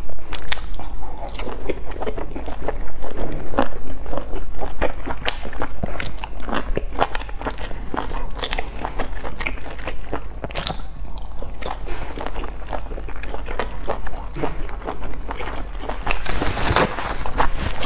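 Close-miked eating sounds: biting into and chewing a soft steamed dumpling, with many short mouth clicks and smacks. A louder rustling burst comes near the end.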